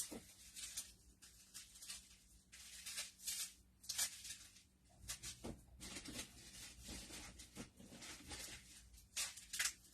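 Faint rustling and scattered light clicks of someone rummaging through crafting supplies, looking through small packets of embellishment gems.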